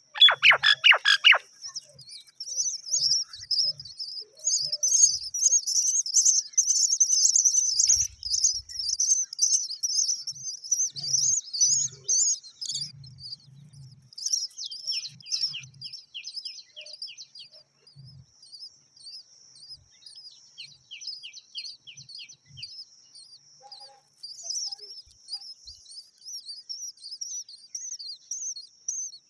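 Myna birds chirping: a dense, high-pitched stream of chirps throughout, opening with a louder, lower call. Twice midway there is a short run of rapid, evenly spaced notes.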